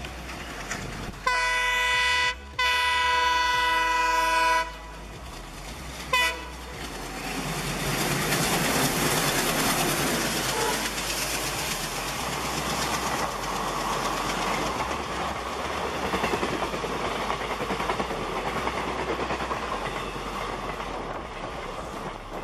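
An Indian express train's multi-tone horn sounds two long blasts and then a short toot. The train then passes at speed with a steady loud rush of wheels on rail.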